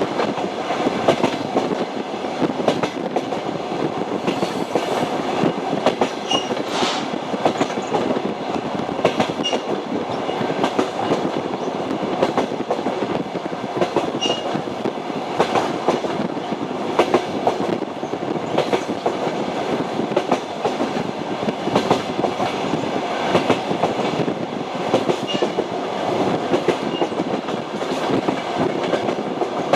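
Train wheels clattering over the rail joints in an uneven run of clicks, over the steady rumble of a moving railway carriage. Brief faint squeaks come now and then.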